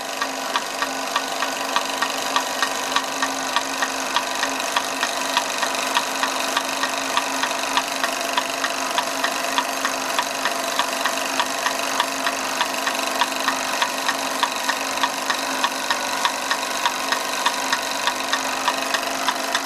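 1930s Bing twin-cylinder toy steam engine running steadily under steam, with a steady hum and a regular light tapping about twice a second from the running machinery. Its resoldered steam pipe joint is holding.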